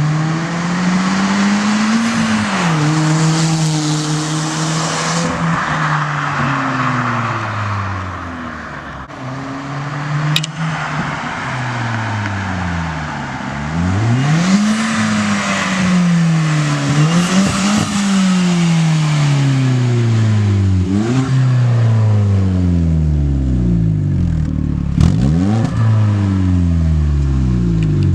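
Hyundai Genesis Coupe 2.0T's turbocharged four-cylinder, its exhaust opened up by a gap cut ahead of the muffler, pulling hard and easing off several times. The engine note climbs in pitch and drops back again and again, with a couple of sharp cracks along the way.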